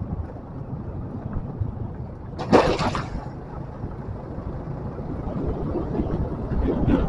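Motorcycle running along at riding speed, a steady low rumble of engine and road noise with wind on the microphone. A short, loud, sharp noise cuts through about two and a half seconds in, and the rumble grows rougher and louder near the end.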